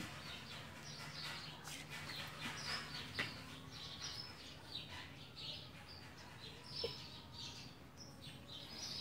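Small birds chirping over and over: short, high chirps that drop in pitch, about two a second.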